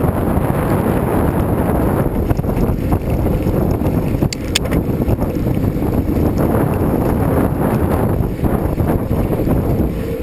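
Loud, steady wind rushing over the camera microphone while cycling, low and rumbling, with a couple of brief high ticks about four and a half seconds in.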